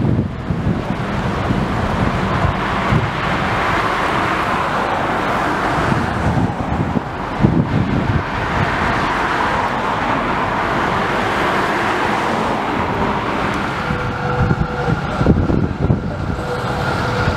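Busy city street traffic with trams: a steady noise of passing vehicles with some low knocks, and a faint steady whine coming in about fourteen seconds in.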